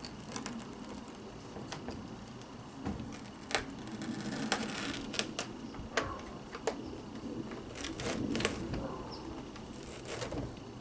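Scattered clicks and short scrapes of hands working at a vacuum cleaner's brush roll, pulling off hair and threads wrapped around it. There is a longer scraping stretch about four seconds in.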